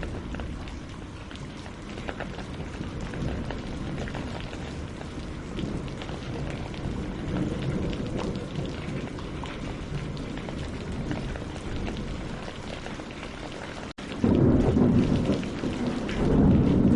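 Steady rain falling on lake water and tree leaves. After a brief break about three-quarters of the way through, a louder, deep rumble of thunder swells in.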